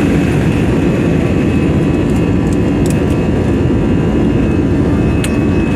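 Cabin noise of an Airbus A320-214 with its CFM56-5B jet engines running, heard from inside the cabin: a loud, steady rumble and rush of air, with a few faint rattling clicks.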